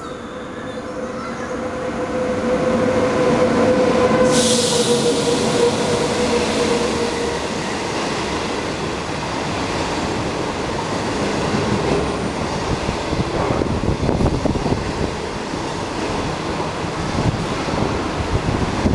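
SS8 electric locomotive hauling a passenger train through a station at speed. A steady whine grows louder as it approaches, with a brief hiss as the locomotive passes about 4 seconds in. The coaches follow with a continuous rumble and the clatter of wheels over the rails.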